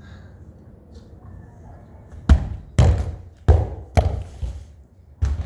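Football thudding hard five times, uneven hits about half a second to a second apart, starting about two seconds in.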